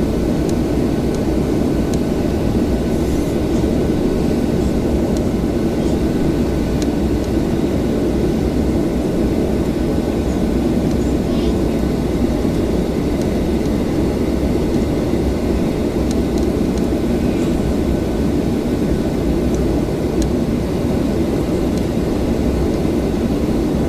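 Steady low drone inside the cabin of a Boeing 737-800 on the ground, with a couple of faint steady tones above it and a few small scattered clicks.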